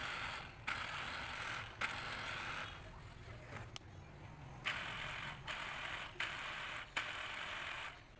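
Small battery-driven electric motor water pump run in bursts of about a second, switched on and off repeatedly, each burst starting with a click as the wire makes contact.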